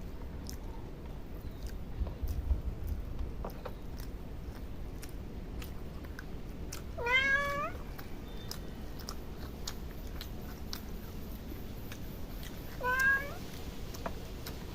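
A cat meowing twice, a longer call about halfway through and a shorter one near the end, with faint chewing clicks underneath.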